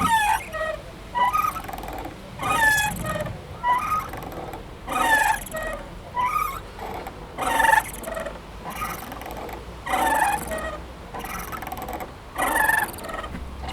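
A playground swing swinging back and forth, its metal chains and hanger pivots squeaking with every stroke. The squeaks come evenly, about once every second and a quarter, and every other one is louder.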